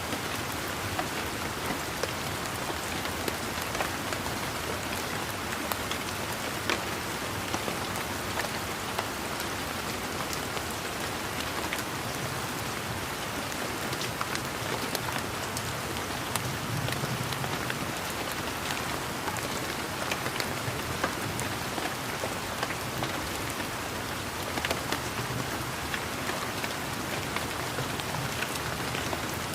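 Steady rain falling, with many individual drops pattering close by.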